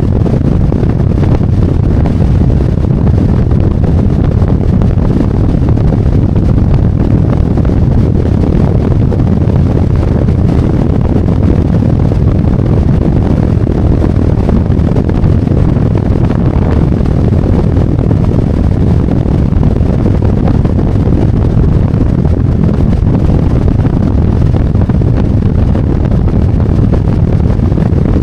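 Harley-Davidson Road Glide V-twin motorcycle under way at steady speed: a constant low rush of wind buffeting the microphone mixed with engine and road noise, with no change in pace.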